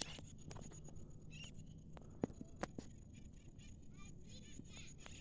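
Faint outdoor ambience with a thin steady high hum, a few sharp clicks and brief faint chirps, likely birds.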